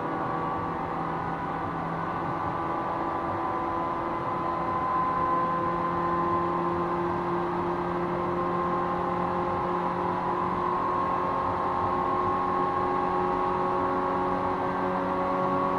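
455-series electric train running, heard aboard the MoHa 455 motor car: the whine of its MT54 traction motors and gearing (gear ratio 4.21) over wheel and track rumble. The whine rises slowly in pitch as speed builds, and the sound gets a little louder about five seconds in.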